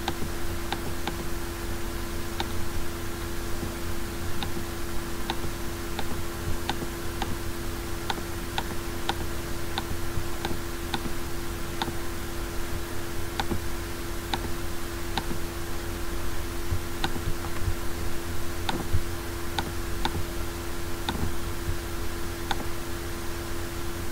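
Computer mouse clicking: single sharp clicks, one or two a second, as the clone tool is dabbed onto the photo. A steady hum runs underneath.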